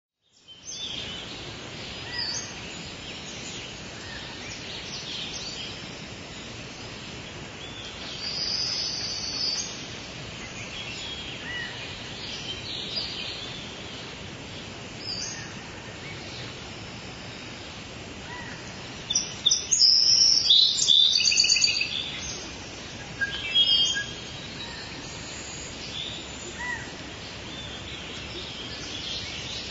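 Small birds chirping and singing over a steady background hiss, with a louder run of rapid chirps about twenty seconds in.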